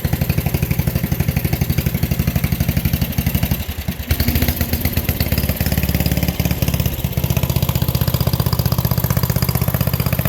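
Single-cylinder 7 hp Briggs & Stratton engine of a 1967 Unico garden tractor running steadily with a fast, even beat while the tractor is driven. The engine note dips briefly and changes just under four seconds in, and shifts again a couple of times later.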